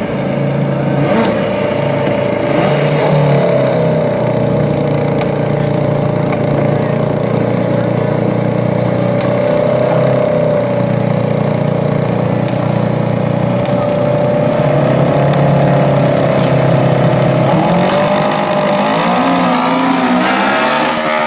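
Racing lawn mower engines running flat out in a drag race, a loud, steady engine drone; the pitch shifts and wavers in the last few seconds.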